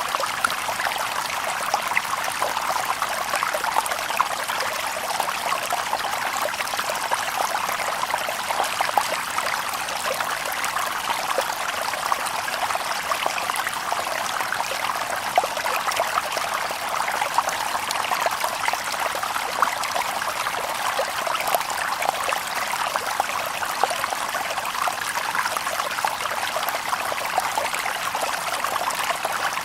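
Shallow stream babbling and trickling over stones, a steady rush of water broken up by many small splashes and gurgles.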